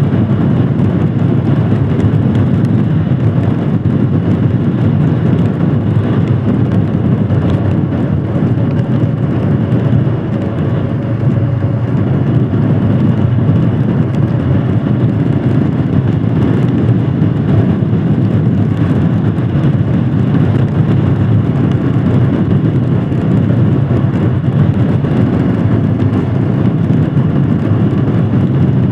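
Royal Enfield Himalayan Scram 411's single-cylinder engine running steadily while the motorcycle is ridden, with wind and road noise mixed in.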